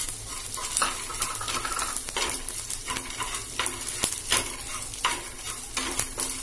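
Edible gum crystals frying in hot ghee in a nonstick pan, sizzling steadily while a wooden spatula scrapes and taps the pan in irregular strokes. The gum is being roasted until it puffs and changes colour.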